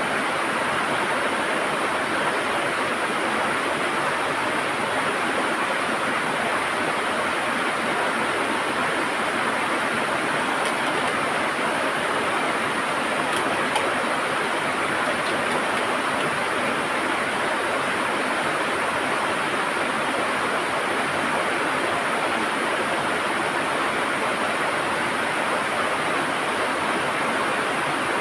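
River water rushing and gurgling steadily over stones, a constant even rush.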